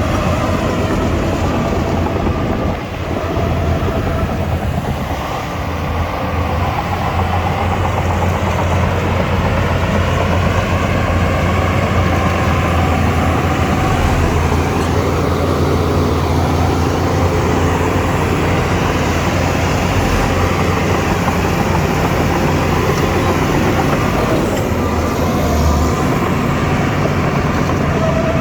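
Shantui DH17C2 crawler bulldozer working: its diesel engine runs steadily under load with a deep drone. The engine note shifts and briefly dips about three seconds in and again around five to six seconds in.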